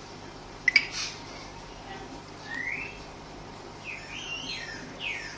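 A bird chirping a few short rising and falling whistled notes over a steady low hum. A sharp double click about two-thirds of a second in is the loudest sound.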